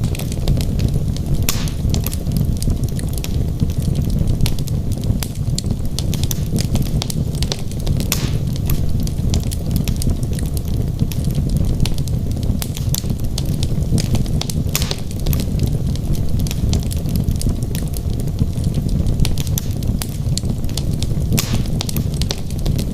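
Wood logs burning in a fireplace: a steady low rumble of the flames with frequent sharp crackles and pops scattered throughout.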